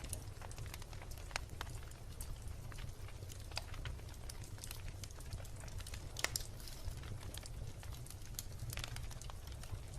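Wood bonfire crackling: irregular sharp pops and snaps of burning logs over a steady low rumble, with a louder snap about six seconds in.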